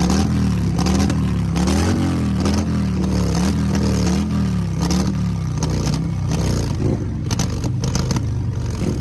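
Harley-Davidson motorcycle V-twin engine being revved over and over, its pitch rising and falling in waves about once a second, then dropping back to a lower, steadier run about six seconds in.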